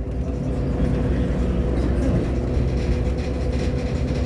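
Irisbus Agora L articulated city bus's engine running steadily, with a steady whine.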